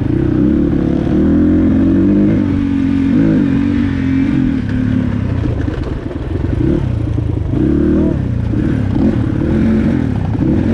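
Dirt bike engine running under a rider, its revs rising and falling again and again, with a brief drop in revs about six seconds in.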